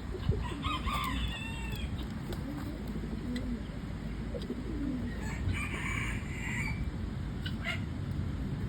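Pigeons cooing, short low calls repeated several times, with a rooster crowing about a second in and another fowl calling around the middle.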